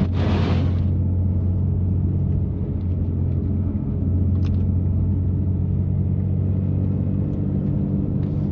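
BMW M3's twin-turbo straight-six, breathing through a catless, open-valved exhaust, droning steadily at low, even revs. A brief rush of hiss comes in the first second.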